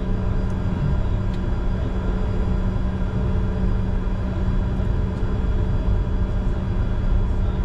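Steady low rumble and hum inside the cockpit of a Bombardier Challenger 605, its two GE CF34 turbofans at idle before the takeoff roll.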